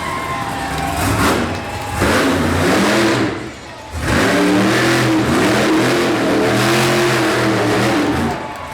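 Monster truck engine revving hard in repeated surges: a short burst about two seconds in, a brief drop, then a long stretch of revs rising and falling until near the end.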